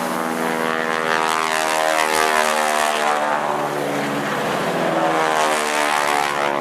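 Boeing Stearman biplanes' radial engines passing low. The engine note slides down in pitch over the first few seconds as an aircraft goes by, then a rising note comes in toward the end as another approaches.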